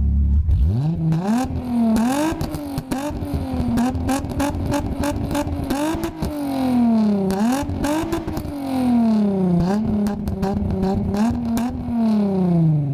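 Volkswagen VR6 narrow-angle V6 engine revving hard again and again, its pitch climbing and falling, with sharp cracks along the way; it revs down near the end.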